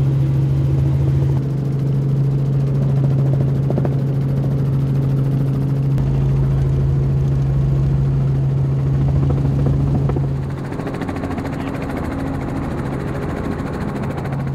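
Helicopter running in flight: a loud, steady low drone with a strong deep tone. About two-thirds of the way through the deep tone fades and the sound drops a little in level.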